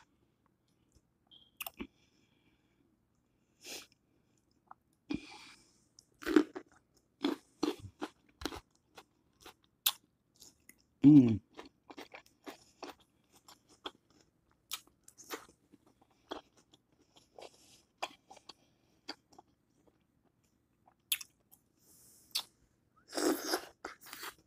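Close-up mouth sounds of a person eating seafood-boil food with her fingers: scattered wet chewing clicks and lip smacks, with a brief low vocal sound about eleven seconds in and a louder smacking stretch as she licks her fingers near the end.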